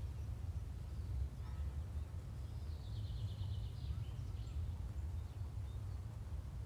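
Faint steady low background rumble, with a faint bird trill of quick repeated chirps about three seconds in.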